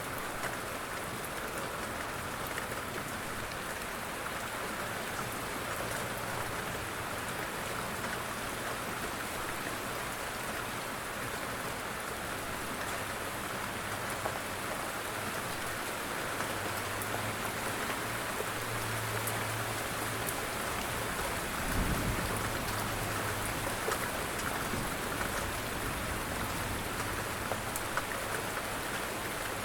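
Steady light rain falling, an even hiss with scattered drop ticks. A dull low thump sounds once about 22 seconds in.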